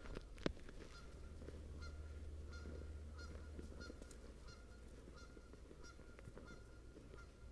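A flock of geese honking faintly in the distance, many short calls overlapping at about three or four a second. A single sharp click about half a second in.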